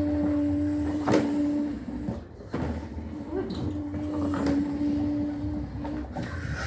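Electrolux top-loading washing machine in its wash cycle: the motor hums for about two seconds, stops, then hums again for about two seconds, with a few knocks from the tub.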